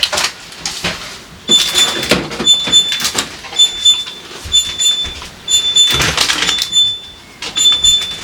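Refrigerator door-open alarm beeping, a high beep about once a second starting about a second and a half in. It sounds over the clatter and rustle of food containers being handled and fridge drawers or shelves sliding.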